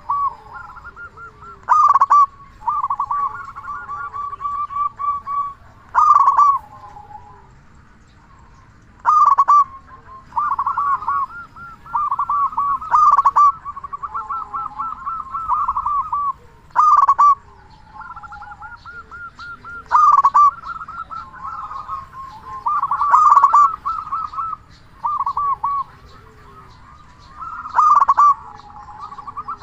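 Zebra dove (perkutut) cooing: a loud opening note every three to four seconds, each followed by a run of quick rolling coos.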